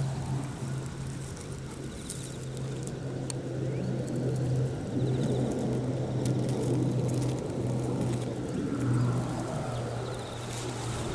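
Wind buffeting the microphone, gusting harder from about four seconds in, over a steady low engine hum.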